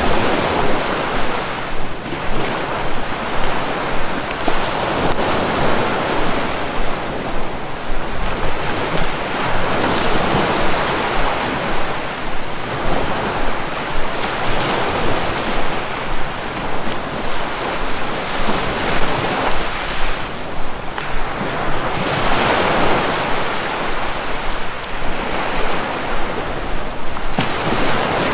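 Sea waves washing onto a shore, a steady surf that swells and eases every few seconds.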